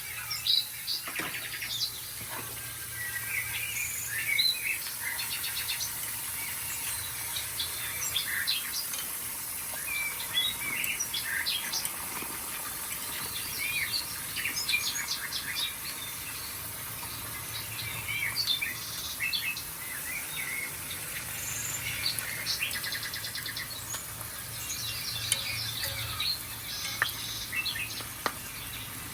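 Songbirds chirping and calling, many short chirps and quick trills from several birds overlapping, over a faint steady low hum.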